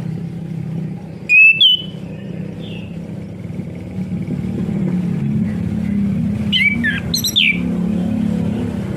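Chestnut-capped thrush giving short, loud, sliding whistled notes, once about a second and a half in and again around seven seconds, over a steady low hum. It is stimulation song meant to provoke a silent caged thrush into singing.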